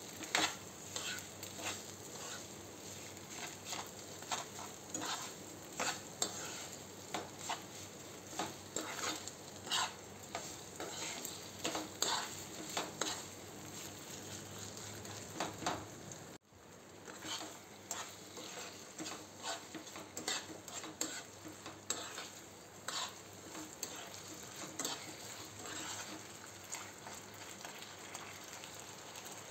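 Mashed boiled potato with sugar sizzling as it roasts in ghee in a nonstick pan, while a steel spoon stirs and scrapes it, giving frequent light clicks against the pan.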